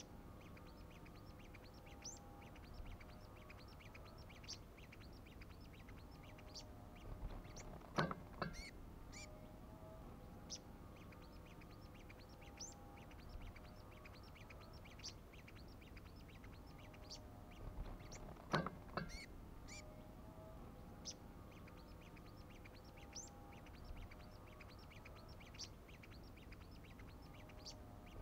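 Small songbirds chirping faintly, with many short high calls. Two louder, fuller calls stand out, about eight seconds in and again about ten seconds later.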